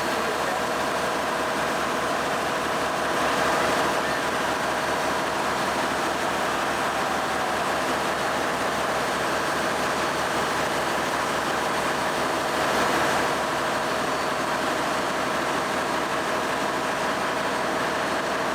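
A steady mechanical drone with a constant hum, like a motor running, swelling slightly twice.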